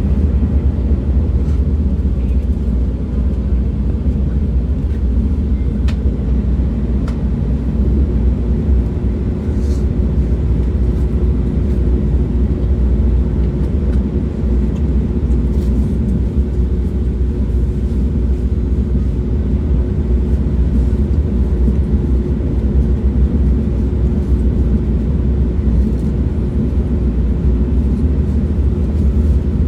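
Train running with a steady low rumble, a faint steady hum joining about eight seconds in, and a few light clicks.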